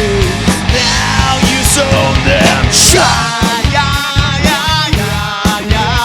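Live rock band playing an instrumental passage: drums and bass with a lead line of bending, wavering notes, and no singing.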